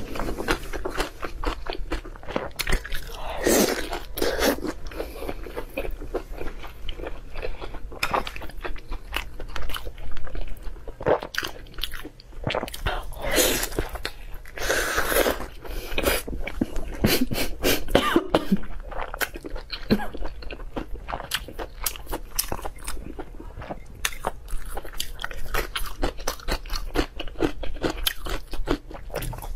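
Close-miked chewing and biting of braised pork belly: a continuous, irregular stream of small wet mouth clicks and bites.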